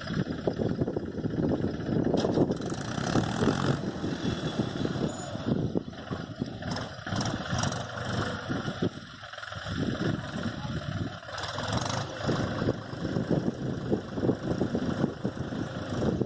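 Mahindra tractor's diesel engine running, its level rising and falling throughout.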